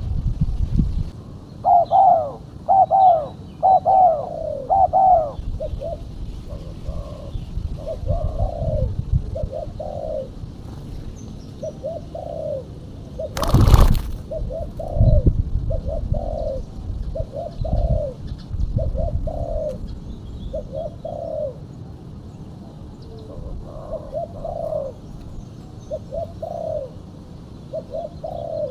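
Female spotted dove (tekukur) cooing: a long series of short, arched coo notes, a quicker run of them in the first few seconds. A single sharp knock about halfway through, over a low rumble.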